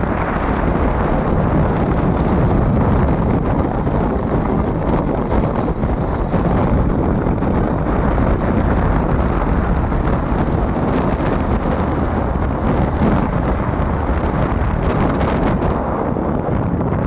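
Steady, loud wind rush buffeting the microphone while riding a motorcycle, with the rider's vehicle running underneath.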